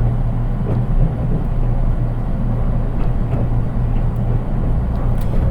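Interior running noise of a JR East 183 series electric train, heard from the unpowered KuHa 183 driving trailer car: a steady low rumble of wheels on rail with a few faint ticks and rattles. With no traction motors in this car, it sounds plain and subdued.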